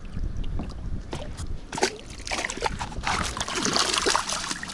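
Water splashing and dripping at the side of an inflatable boat as an overturned pike tip-up float and its line are pulled from the lake, the splashes becoming busier in the second half.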